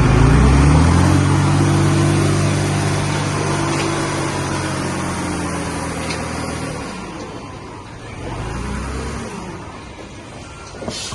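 A heavy diesel engine of earthmoving machinery revs up at the start and holds a steady high run for about seven seconds, then drops back. It briefly picks up again near the eight-second mark, and a sharp knock comes near the end.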